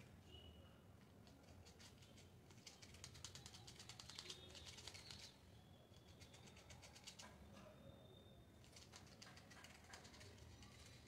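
Faint bird calls: a few short high whistled notes and two bursts of fast ticking chatter.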